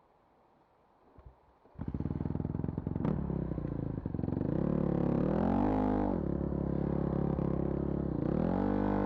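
Vehicle engine starting about two seconds in, then running with the pitch rising and falling twice as it is revved.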